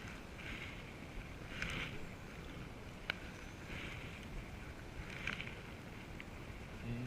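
Canoe paddles stroking through the water: a regular swish and splash roughly every second, with a sharp knock about three seconds in.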